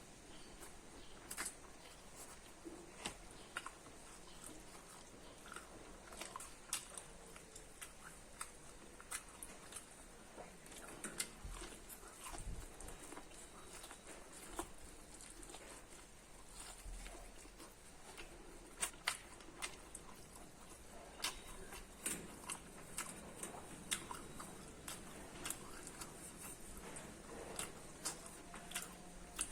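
Close-up eating of corn: irregular small crunches and mouth clicks from biting and chewing the kernels, a few each second.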